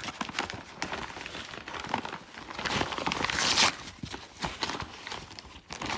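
A mail package being torn open: paper or plastic packaging crinkling and tearing in scattered bursts, loudest with a long rip about three and a half seconds in.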